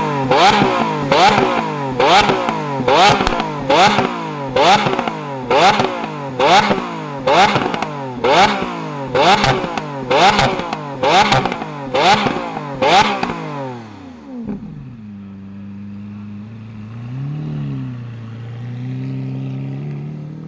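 Lamborghini Aventador S Roadster's 6.5-litre naturally aspirated V12 free-revved in a rapid series of sharp blips, about one a second, each rising quickly in pitch and falling back. About 14 seconds in the revving stops and the engine settles to a steady idle, with a small blip a few seconds later.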